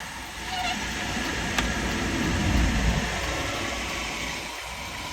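Semi-truck on the move: steady engine and road noise that swells to a peak about halfway through and then eases off, with a single click about a second and a half in.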